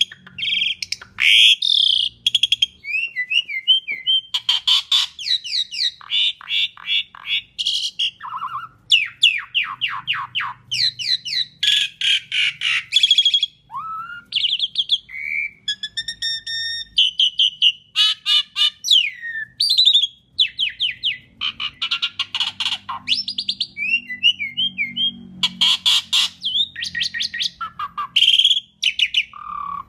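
Asian pied starling (jalak suren) singing a long, varied song of rapid rattling trills, whistled notes and short glides, with hardly a pause.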